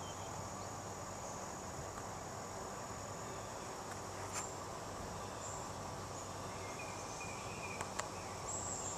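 Insects chirping, a high steady trilling over a low even hiss, with one sharp click about halfway and two more close together near the end.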